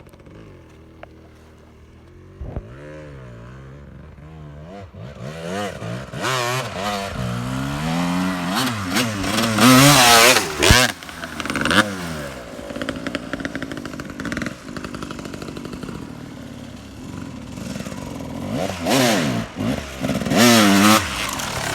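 Two-stroke 250 cc motocross bike engine revving up and down repeatedly as it is ridden, fainter for the first few seconds and loudest about ten seconds in and again near the end.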